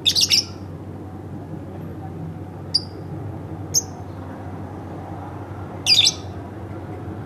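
Pet lovebird calling: a shrill chattering burst at the start, two single high chirps about three and four seconds in, then another chattering burst about six seconds in.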